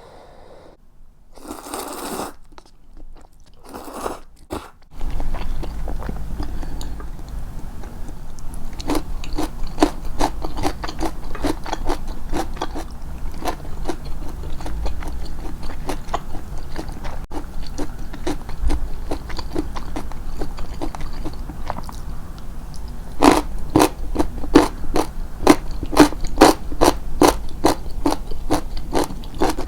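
Close-miked chewing of crunchy food, with crisp crunches in a steady rhythm of about two to three a second that grow louder in the last several seconds. A low steady hum runs underneath, after a few short rustles at the start.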